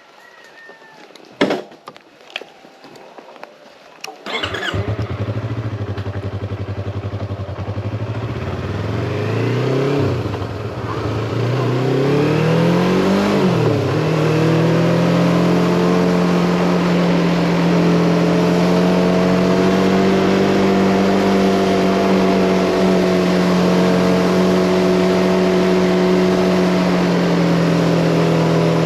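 A few sharp clicks, then a Yamaha MT-25's parallel-twin engine starts about four seconds in and idles. It revs up and down several times as the bike pulls away through the low gears, then runs steadily at a rising cruising speed.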